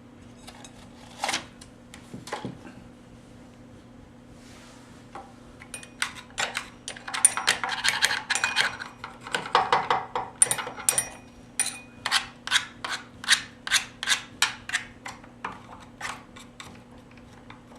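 Caked-up sawdust being scraped and picked off a chainsaw's housing. A few scattered clicks come first, then from about six seconds in a long run of quick scraping strokes that settles into about two strokes a second.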